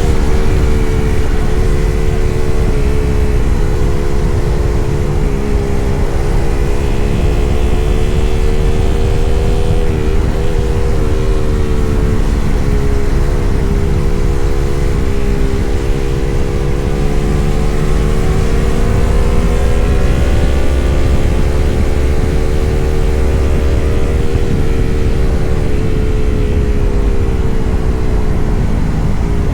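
Yamaha MT-03 motorcycle engine running at steady cruising revs, its pitch drifting gently up and down as the throttle eases on and off, over a steady low rumble.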